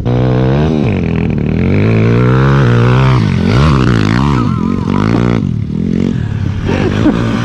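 Motorcycle engine revving up and down several times for about five seconds, then easing off.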